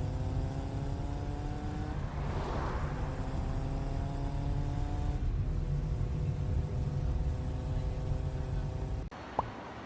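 A motor vehicle running over a steady low rumble, its engine pitch climbing slowly three times and dropping back in between, as when shifting up through the gears; the sound cuts off suddenly about nine seconds in.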